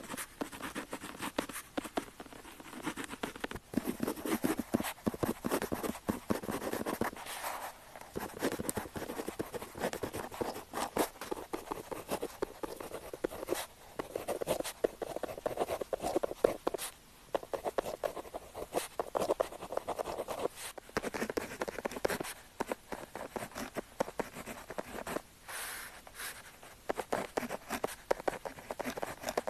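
Pen tip writing on paper: continuous scratchy strokes with brief pauses between them.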